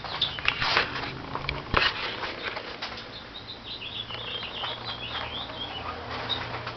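Canvas tent fabric rustling, with the clicks and scrapes of a zipper and its pull being handled. About halfway through, a quick series of high chirps runs for a couple of seconds.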